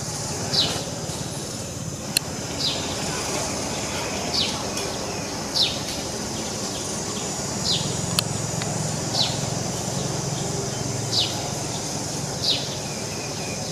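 A bird calling: a short, high, downward-sliding chirp repeated every second or two, over a steady background hiss. Two sharp clicks, about two seconds in and again about eight seconds in.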